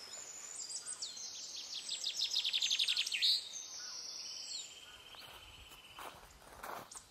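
Wild birds calling: a fast run of high chirps in the first half, then a steady high trill with thin whistled notes. A few soft thuds near the end.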